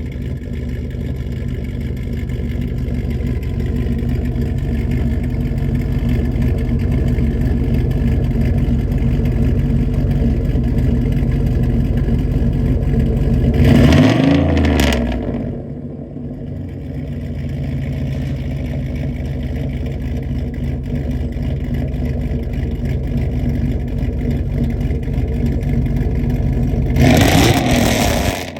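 Cammed 5.3 L LS4 V8 of a 2008 Chevrolet Impala SS running through a full 3-inch straight-pipe exhaust, holding steady and slowly building. It surges louder about halfway through and again near the end, each time dropping off sharply.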